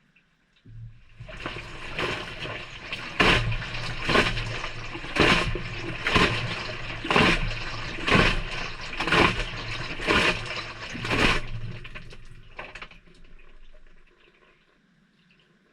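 Maytag front-loader washing machine tumbling a delicate wash, heard from inside the drum: the drum motor hums while water and clothes slosh, rising to a splash about once a second, then the drum winds down and stops. The motor starts again near the end.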